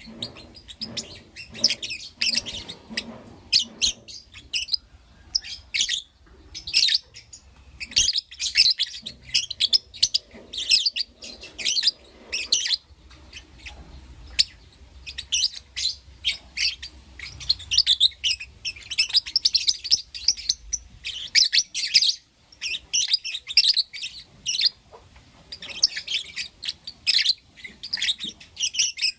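Lovebirds chirping and calling: rapid, shrill high-pitched chirps in dense clusters with short pauses.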